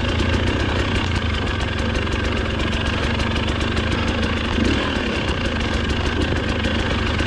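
Dirt bike engine idling steadily, with an even low hum and no revving.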